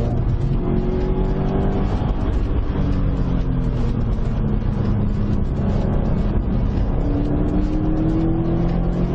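2015 Subaru WRX STI's turbocharged 2.5-litre flat-four engine running hard on a lap, its pitch climbing in the first couple of seconds, falling through the middle, then climbing again near the end, over steady road and wind noise.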